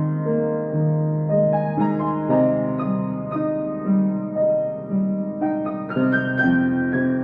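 Solo piano playing a slow piece: single melody notes struck every half second or so, ringing on over sustained lower chords.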